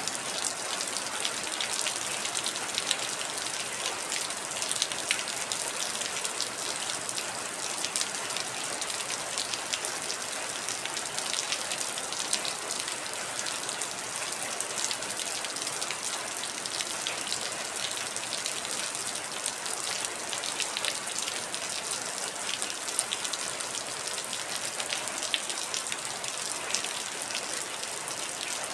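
Heavy rain falling steadily, a dense even hiss with many separate drops ticking sharply on a hard surface.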